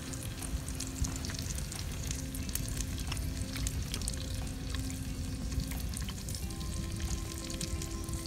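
Food frying in a pan: a steady sizzle thick with fine crackling.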